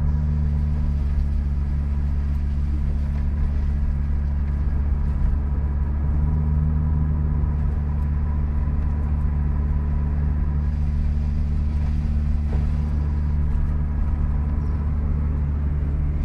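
Car engine running steadily under way, a low even drone with no break or change in pace.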